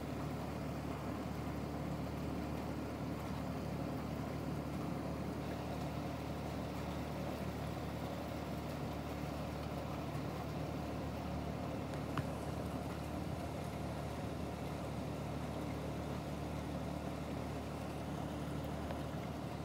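Steady rain heard through a screened window, with a low steady hum underneath and a single small click about twelve seconds in.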